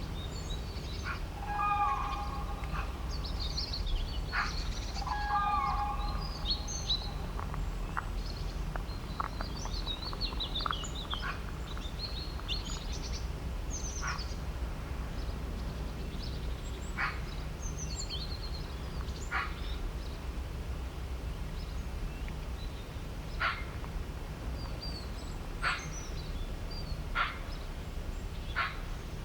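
Several birds chirping and calling, with quick high chirps thick in the first half and single sharp chirps every couple of seconds after. A few lower, pitched calls come in the first few seconds, over a steady low rumble.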